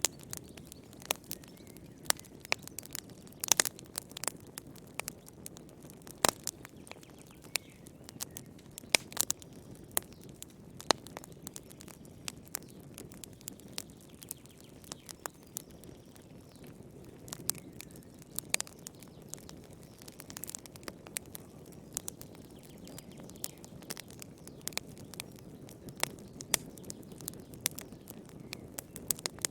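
Wood fire in a fireplace crackling: irregular sharp pops and snaps, several a second, some much louder than others, over a steady low rush of burning flames.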